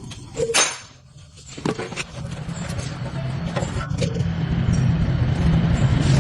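An engine running with a steady low hum, a sharp clatter and a few clicks near the start; the hum drops away about a second in, then comes back and grows louder.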